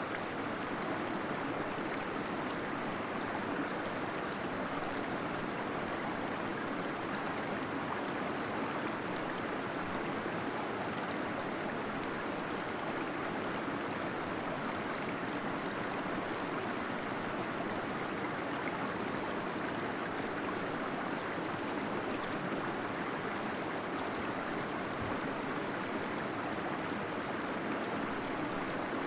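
Small waterfall splashing and gurgling steadily into a pool inside a cave, its rush even and unbroken.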